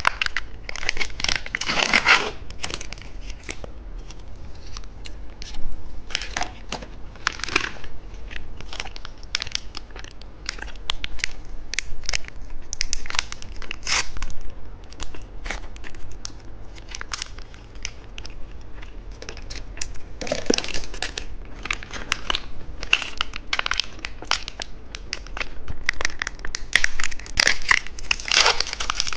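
Plastic snack wrapper crinkling and tearing in short, irregular bursts as a packaged cheese stick is unwrapped.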